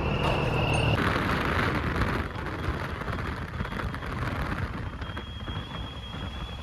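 Heavy truck pulling a loaded trailer on the road: a steady low engine hum, then from about a second in an even rushing road and wind noise.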